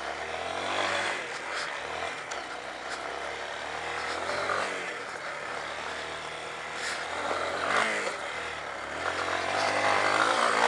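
2009 Honda CRF230L's single-cylinder four-stroke engine running under a rider, revving up and falling back several times with the throttle.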